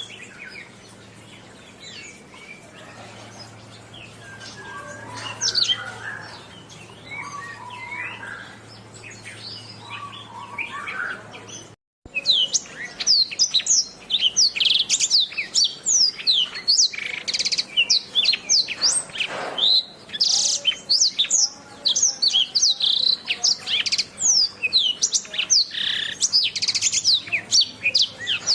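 Domestic canary singing. The first part is quieter, with scattered chirps over a low steady hum. After a brief silent break about twelve seconds in, the song turns loud and dense: fast, high chirps and trills run one after another.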